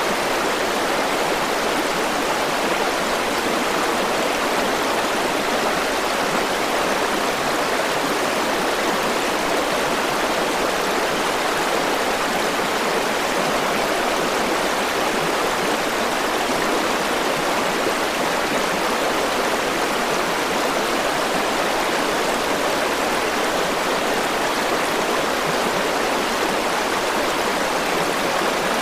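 River water rushing and flowing steadily over its bed, an even, unbroken rush.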